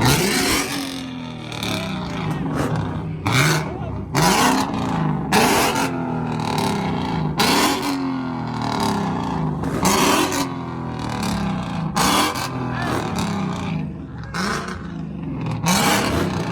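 A car engine being revved hard again and again. Each rev sweeps sharply up and falls back, about every second or two.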